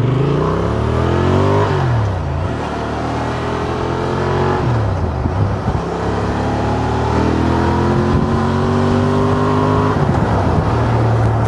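Honda Transalp twin-cylinder motorcycle engine accelerating up through the gears, its pitch climbing and then dropping at each of three gear changes, about two, five and ten seconds in, over steady wind rush.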